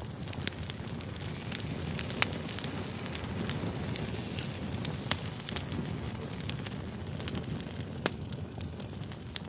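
Firewood burning, crackling and popping with many sharp snaps over a steady low rush of flame; the loudest pops come about two, five and eight seconds in.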